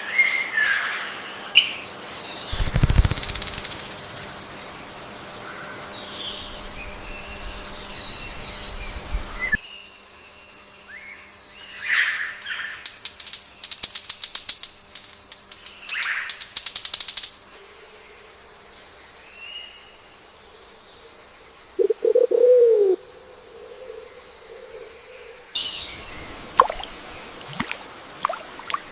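Assorted bird calls and chirps in forest ambience, with a burst of wing flapping a few seconds in and a rapid run of sharp clicks, about three a second, in the middle. A short, louder, lower-pitched call comes later.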